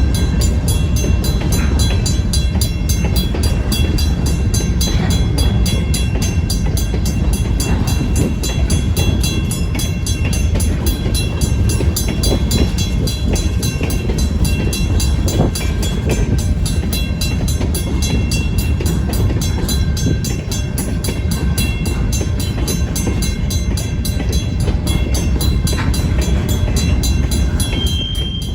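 Train of freight cars rolling slowly through a grade crossing, with a steady low rumble from the wheels. Over it, the crossing's first-generation WCH mechanical bell rings continuously in an even, rapid rhythm.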